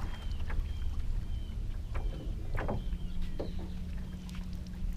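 Knocks and splashes as a hooked largemouth bass is brought to the boat and landed, over a low rumble. A low steady hum comes in about halfway through.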